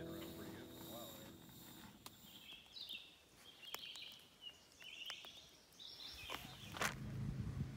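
Faint outdoor ambience with a bird giving several short, high chirps in the middle. Scattered light clicks, with a sharper one near the end, and a low steady rumble that sets in about six seconds in.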